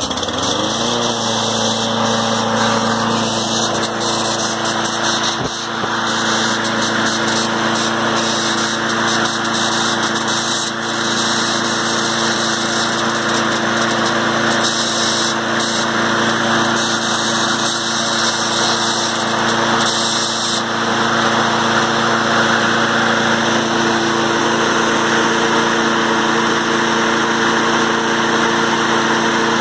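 Briggs & Stratton 8.5 hp Professional engine on a Snapper mower catching and revving up, then running steadily with a strange noise that the owner ties to the recoil pull-cord starter.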